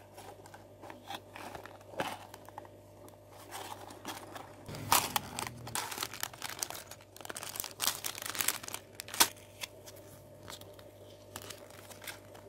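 Plastic packaging of a building-brick set being handled: crinkling and rustling with sharp clicks, busiest and loudest in the middle of the stretch and thinning out near the end.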